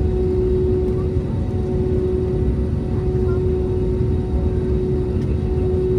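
Airbus A321neo airliner: a steady, loud low rumble with a steady hum running through it.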